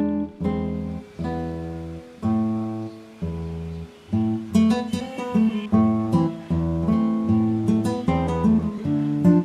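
Background music: acoustic guitar, strummed chords that ring and fade, with quicker picked notes from about four and a half seconds in.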